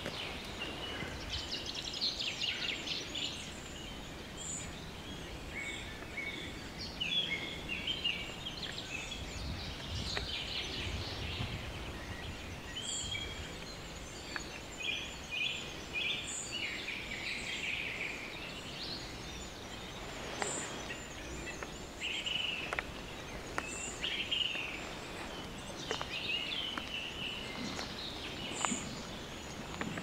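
Several small birds singing and calling at once, short chirps, quick trills and thin high notes overlapping throughout.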